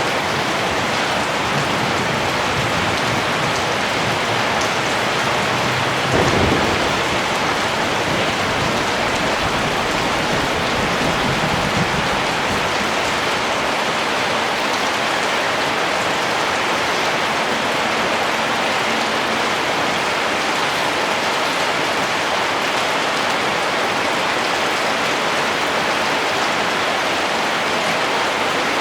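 Steady rain falling, an even hiss of many drops. About six seconds in a short low rumble swells up briefly over the rain.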